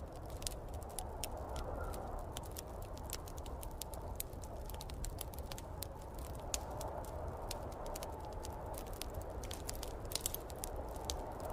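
Wood fire crackling in a fireplace, with frequent irregular pops and snaps over a steady low rumble.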